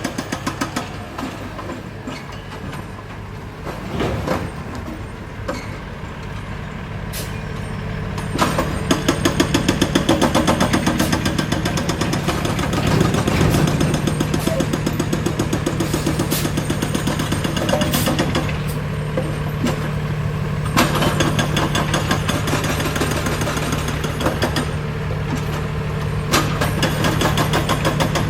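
Engines of heavy road-construction machinery running steadily, with a rapid rhythmic clatter from about a third of the way in and a few sharp knocks.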